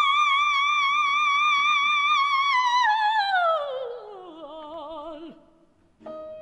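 Operatic soprano singing a long high note with wide vibrato, then sliding smoothly down to a much lower note and fading away. A different musical sound enters near the end.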